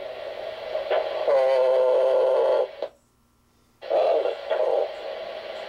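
Air-band radio receiver with an open channel hissing between transmissions. A steady droning tone comes through for about a second and a half. Just before the three-second mark the squelch cuts the audio off abruptly to silence for under a second, then the channel opens again with hiss.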